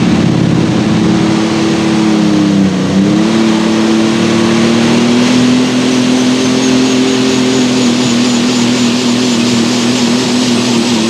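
Light super stock pulling tractor's diesel engine, a Case International, running at high, steady revs under load during a pull, with a brief dip in pitch about three seconds in.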